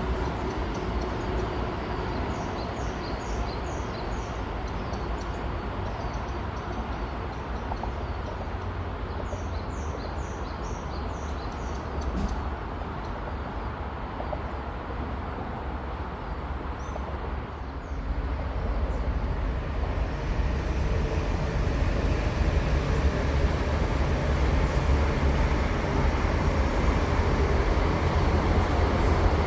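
Steady rumble of a high-speed train on the line, growing louder about two-thirds of the way through as it draws nearer. Birds chirp briefly a few times in the first half.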